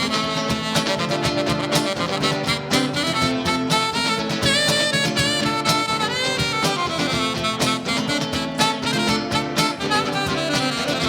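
Live band playing an instrumental break between sung sections: drum hits under sustained chords and a melodic lead line.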